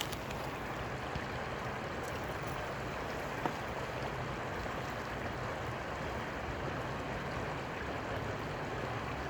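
Steady rushing of flowing river water, with a single faint click about three and a half seconds in.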